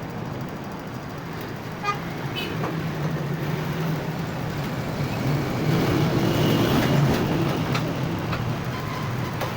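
A motor vehicle's engine running steadily with a low hum, amid road traffic noise, getting a little louder about six seconds in.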